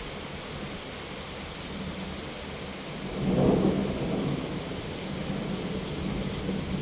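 Steady rain hiss, with a low roll of thunder that swells about three seconds in and fades over the next second or so.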